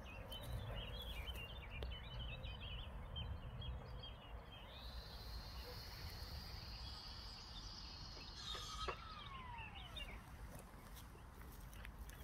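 Small birds chirping and twittering over a low steady rumble. Midway, a long, even high note is held for about four seconds, and a falling whistle follows shortly after.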